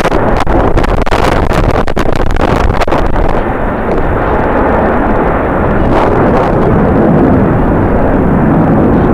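Strong gusty wind buffeting the microphone: a loud rumbling roar with sharp crackles through the first three seconds, then steadier.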